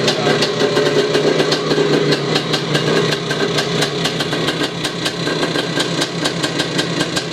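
1980 Husqvarna CR390's single-cylinder two-stroke engine running at a steady idle, an even, rapid popping beat. It has just caught after being flooded and is now running clean.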